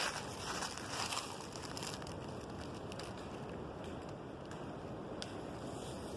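Two short bursts of crunching and crackling in dry leaves or brush in the first second, then a steady outdoor rush with a few faint ticks.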